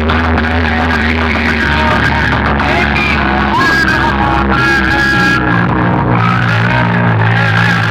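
Loud music blasting from a large DJ sound-box system, with heavy, booming bass under a melody line that changes about halfway through.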